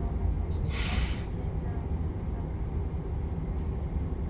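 Regional passenger train running on the line, heard from inside the carriage: a steady low rumble, with a brief hiss about a second in.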